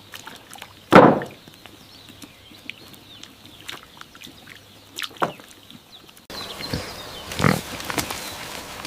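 Pig grunting in short, sudden calls, the loudest about a second in and another about five seconds in. The background turns to a louder hiss near the end, and one more call follows.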